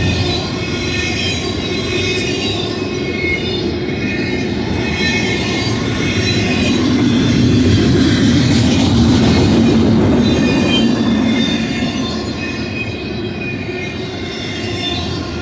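Double-stack intermodal freight train rolling past: a steady rumble of steel wheels on rail, with steady high-pitched squeal from the wheels, swelling a little louder about halfway through.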